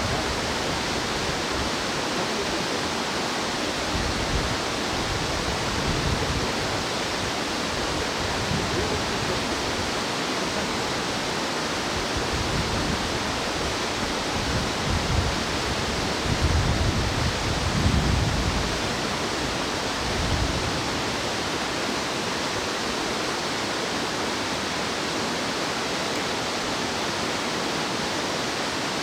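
Rushing mountain stream: a steady hiss of flowing water. Low rumbles come and go over it, strongest a little past the middle.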